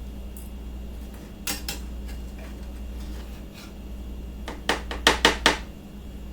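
A cooking utensil knocking and clinking against a frying pan while an omelet cooks: two clinks about a second and a half in, then a quick run of four louder ones near the end, over a steady low hum.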